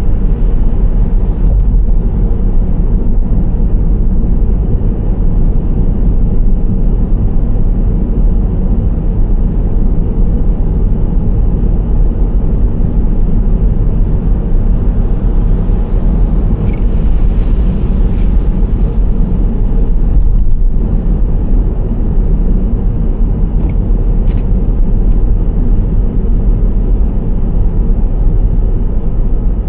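Steady road and engine noise of a Nissan Serena C25 minivan driving: a constant low rumble of tyres and drivetrain with no change in pace. A few faint clicks come partway through.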